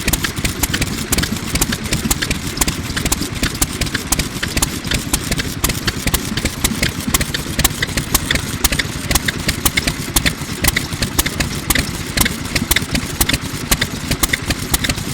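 A MIKAWA 2 hp oil engine from around 1950 running steadily, its exhaust popping sharply through a small muffler in a quick, even beat.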